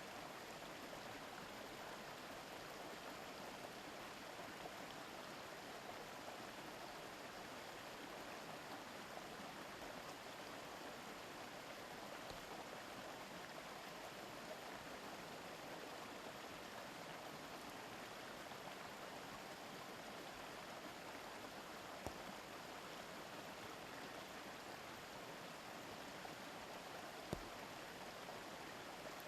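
Mountain river murmuring over stones, a steady rush of flowing water, with a couple of faint clicks near the end.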